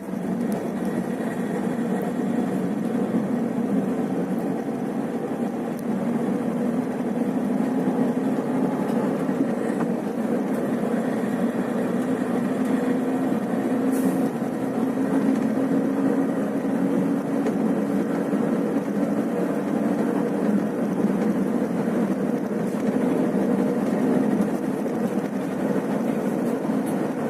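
Scania bus's diesel engine and road noise as a steady drone while the bus drives along the highway, getting a little louder about six seconds in.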